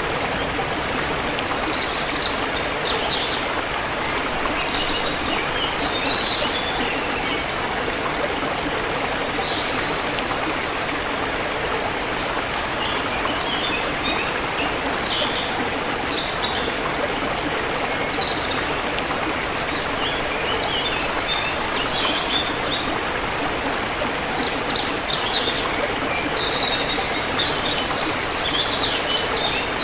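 River water flowing in a steady rush, with small birds chirping in short scattered bursts of high notes over it.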